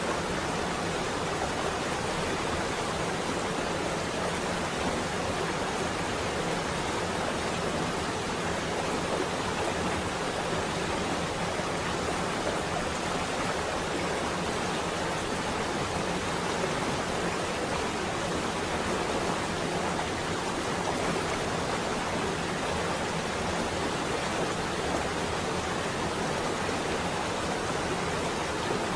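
Steady rain on a window, an even, unbroken hiss with no single drops, rumbles or thunder standing out.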